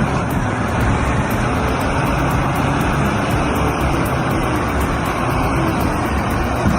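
Large diesel earthmoving machine running steadily: a loud, continuous engine rumble with dense mechanical noise over it.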